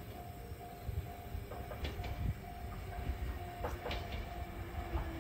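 Local train approaching a station with a low rumble and a few sharp wheel clicks over the rail joints. A bell-like tone repeats several times a second behind it.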